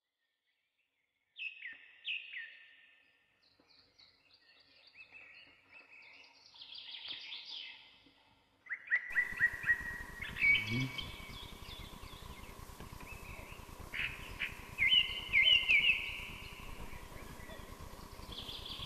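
Birds chirping and trilling in short, high, repeated phrases. About halfway through, a steady background hiss with a faint hum comes in beneath them.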